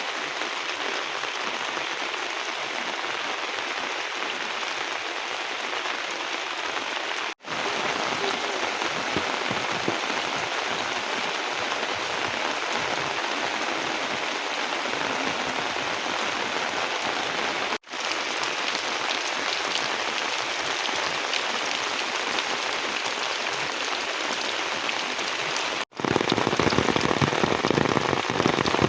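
Steady rain falling, an even patter with no other sound over it. It breaks off three times for a split second, and after the last break, near the end, it comes back louder and fuller.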